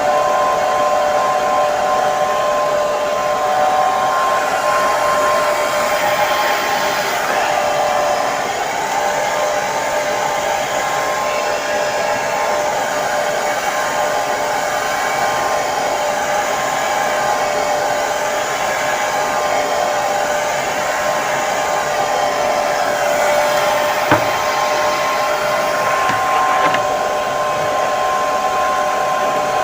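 Hair dryer running steadily: a constant rush of air with a steady motor whine. A brief click about three-quarters of the way through.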